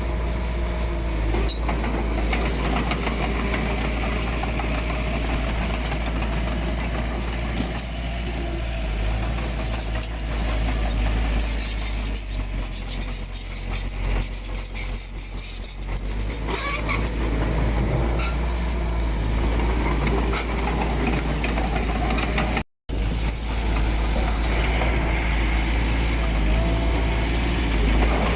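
Diesel engine of earthmoving machinery running steadily, with a deep low rumble and scattered metallic clatter around the middle. The sound drops out for an instant late on.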